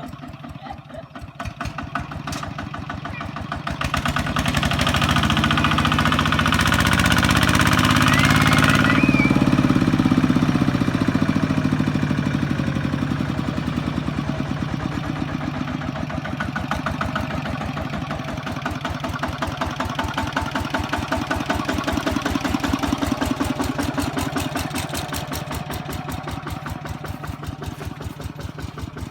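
Kubota ZT155 walking tractor's single-cylinder diesel engine running with a fast, even chugging, which grows louder about four seconds in and eases off again after about twelve seconds. A loud hiss runs over the engine for about five seconds from the moment it grows louder.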